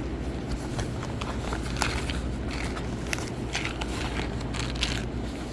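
Packaging rustling and crinkling as a shipping package is dug through, with many short irregular crackles and clicks over a steady low hum.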